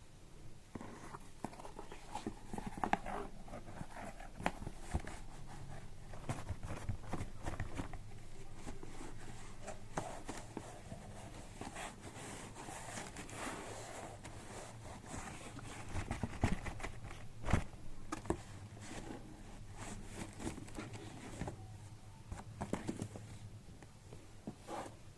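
Packaging being handled and opened by hand: rustling and scraping with scattered sharp clicks and knocks, one louder knock about two-thirds of the way through.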